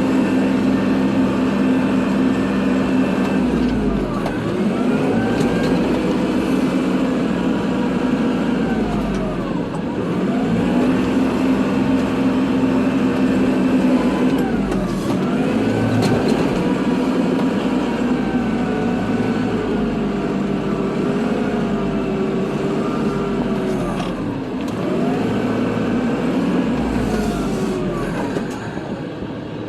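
Kubota diesel tractor running under load while plowing snow, its engine and drive pitch dipping and climbing back up every five seconds or so as it works back and forth.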